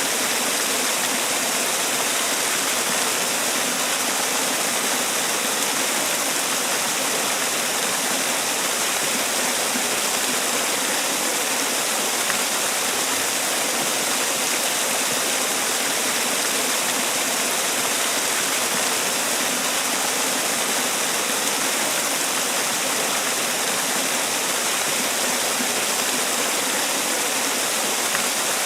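Water from a man-made waterfall pouring and splashing in a steady rushing hiss, unchanging throughout.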